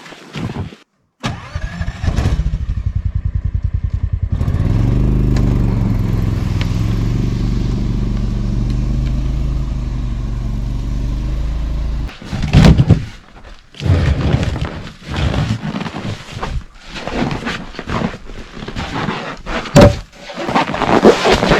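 A small engine turns over with a fast, even pulsing, catches and runs steadily, then stops suddenly about twelve seconds in. Irregular knocks and scrapes follow.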